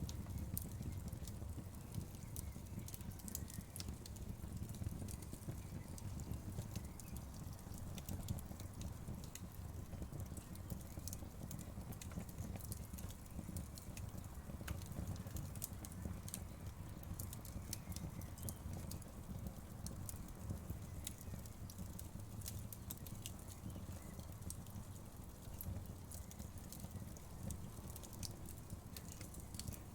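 Wood fire crackling, with frequent irregular sharp pops and snaps over a low steady rumble of the flames.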